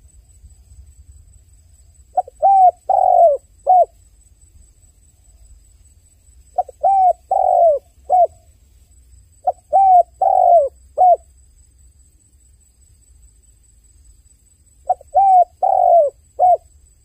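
A dove cooing: four calls, each a short phrase of about four low notes, repeated every few seconds over a faint low hum.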